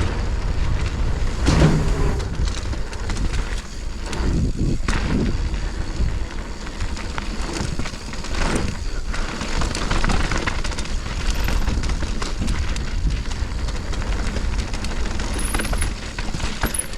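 Mountain bike riding fast down a dirt trail: wind rushing over the camera microphone, tyres on dirt, and the bike rattling and knocking over bumps, with louder surges every few seconds.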